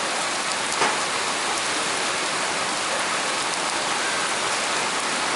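Heavy, torrential rain falling in a steady hiss, with a single sharp click a little under a second in.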